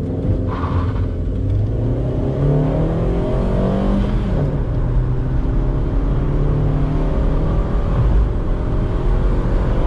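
Volkswagen Saveiro pickup's engine at full throttle in a standing-start 0–100 km/h acceleration run, heard from inside the cab. The engine pitch climbs through each gear and drops at three upshifts, about two and a half, four and a half, and eight seconds in.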